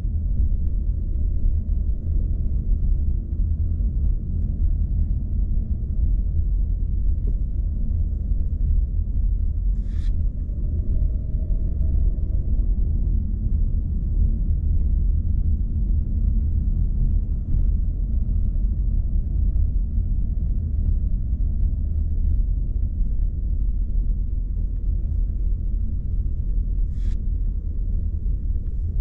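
Car driving at low speed, with a steady low rumble of road and engine noise. There are two brief faint ticks, one about a third of the way in and one near the end.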